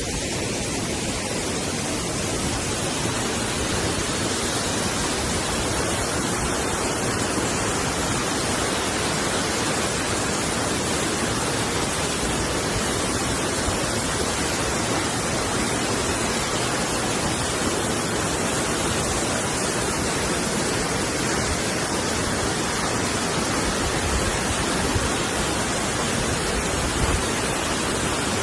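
Waterfall water crashing down continuously, an even, loud roar of rushing water.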